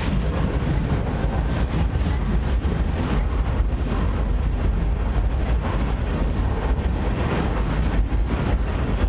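Freight cars loaded with wind turbine blades rolling past: a steady rumble of steel wheels on rails, with faint clicks throughout.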